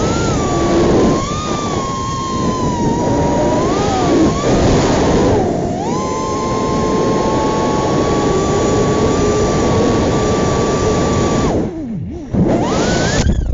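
BetaFPV Pavo 20 cinewhoop's motors and ducted propellers whining in flight, recorded close up from the drone itself. The pitch rises and falls with throttle, dropping sharply twice, about six seconds in and near twelve seconds, before climbing again near the end.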